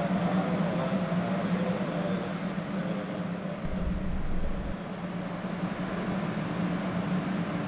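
500 Series Shinkansen standing at the platform, its onboard equipment giving a steady low hum, with a brief low rumble about four seconds in.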